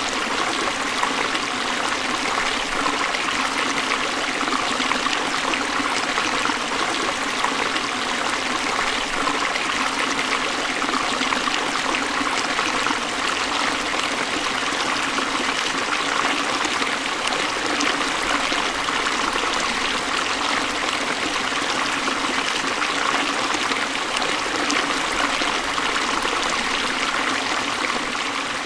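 Forest stream flowing steadily over rocks: a continuous rush of running water with trickling.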